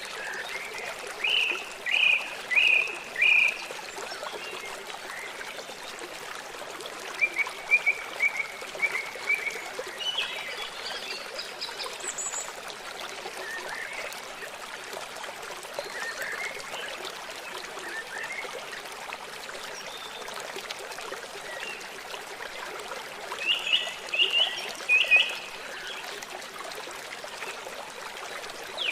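Steady rush of a flowing river with songbirds calling over it: short bursts of chirps about a second in, again around seven to nine seconds, and a few more near the end.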